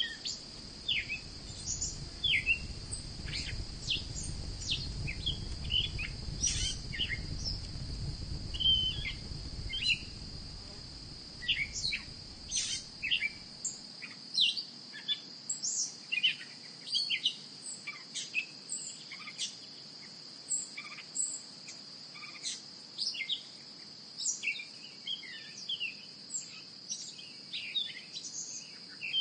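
Many short bird chirps over a steady, high-pitched insect drone. A low rumble sits underneath for about the first half and cuts off suddenly.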